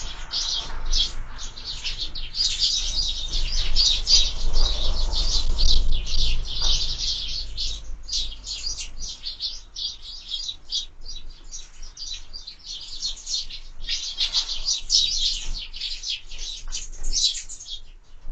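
A flock of sparrows chirping, with many short overlapping chirps and no pause. The chirping is busiest in two spells, a few seconds in and again near the end.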